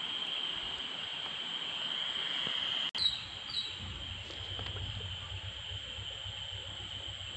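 Steady, high-pitched chorus of night insects, one continuous shrill tone. About three seconds in the sound briefly cuts out, followed by two short chirps.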